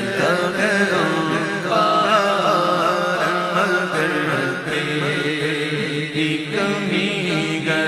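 A voice singing a naat, an Urdu devotional song, in long melodic lines that bend and glide in pitch.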